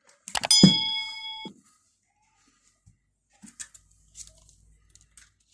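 A sharp click, then an electronic beep held for about a second, followed by a few faint small clicks and a low hum.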